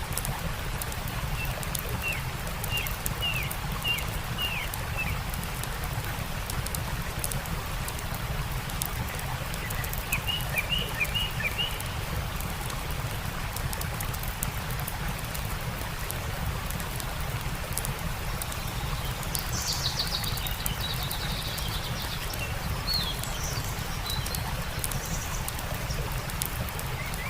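Steady rush of a stream with a campfire crackling, and songbirds calling over it: a run of short falling chirps near the start, another about ten seconds in, and higher calls around twenty seconds in.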